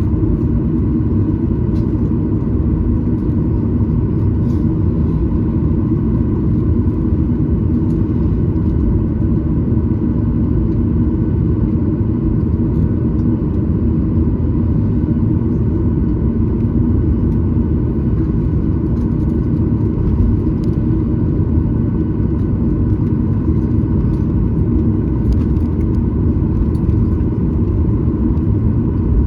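Cabin noise of a Boeing 737-900ER on the ground before takeoff: a steady low rumble from its CFM56-7B jet engines at low ground power, with a faint steady whine above it. Heard from inside the passenger cabin.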